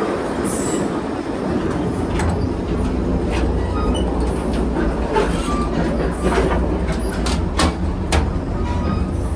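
Vintage passenger train rolling along, heard from inside its cars: a steady rumble of wheels on track that deepens about one and a half seconds in, with scattered sharp clanks and rattles.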